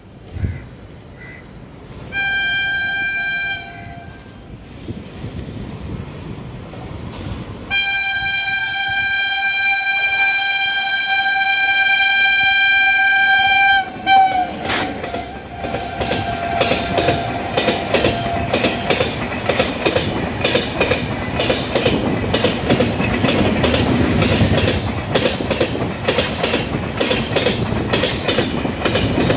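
Indian Railways electric locomotive sounding its horn, a short blast and then a long one of about six seconds, as an express train approaches. The train then passes at speed, its wheels clicking steadily over the rail joints.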